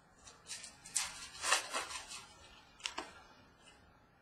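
Football trading cards being flipped and handled. There are a few short rustles and slides of card stock, the loudest about a second and a half in and another near three seconds.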